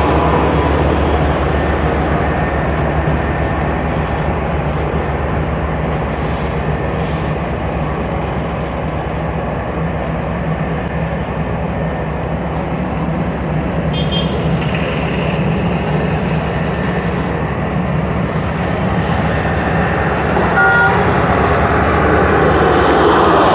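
Heavy diesel engines of a tipper truck and a road paver running steadily, a deep, even drone while stone aggregate is unloaded into the paver.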